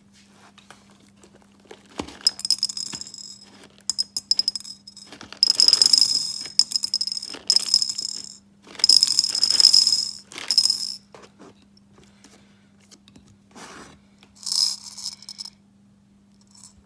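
Small hard pieces rattling and jangling in a container in a run of bursts, the longest about a second each, with a steady faint hum underneath.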